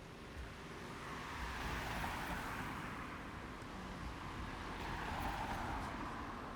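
Road traffic passing close by: vehicles drive past one after another, their tyre and engine noise swelling to a peak about two seconds in and again about five seconds in.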